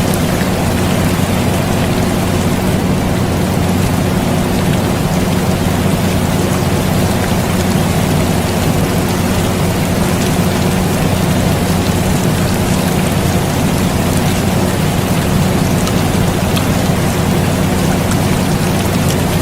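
Steady rain hiss mixed with the constant low hum of an air conditioner, with no change throughout.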